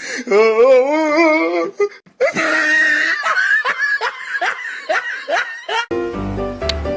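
A person laughing hard: a long wavering laugh, then a run of quick repeated ha-ha bursts. Music starts near the end.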